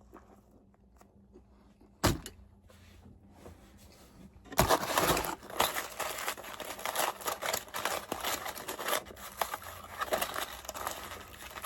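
Paper food wrapper crinkling and rustling as it is handled, with a single sharp click about two seconds in.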